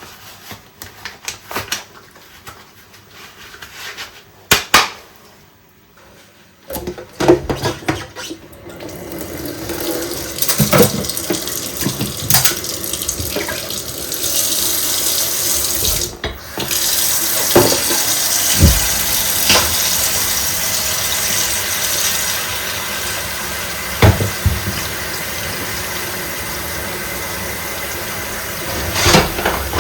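Water running from a tap into a kitchen sink while dishes are washed by hand, with scattered clinks and knocks of crockery. The first several seconds hold only handling clicks; the water comes on about seven seconds in and breaks off briefly about halfway through.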